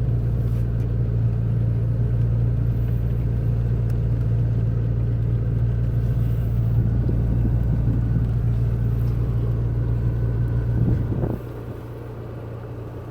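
McLaren 720S twin-turbo V8 idling with a steady low hum. About eleven seconds in, the sound drops away sharply and becomes much quieter.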